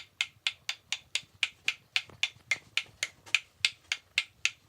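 A small ball bounced over and over in a steady rhythm, one sharp tap about every quarter second.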